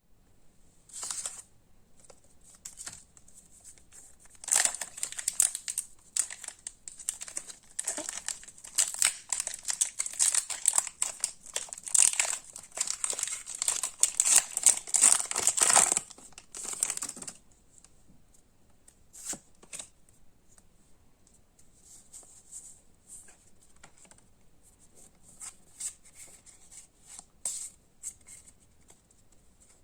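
Plastic wrapping of Pokémon trading-card packaging being torn open and crinkled: a dense run of crackling from about four seconds in to about sixteen seconds, then only scattered light crinkles.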